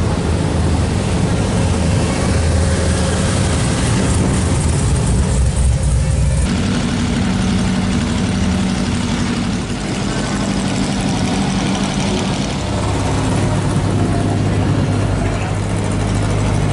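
Car engines running at low speed in slow street traffic, a steady low exhaust note that changes character about six seconds in and again near the end as different vehicles pass.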